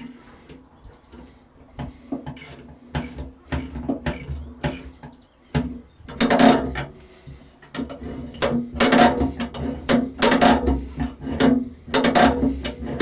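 Hand-tool work on metal machinery parts: irregular metallic clicks, knocks and rattles, coming thicker and louder about halfway through, over a steady low hum.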